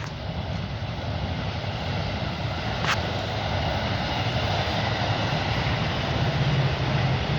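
Train approaching: a steady rumble growing gradually louder, with a single sharp click about three seconds in.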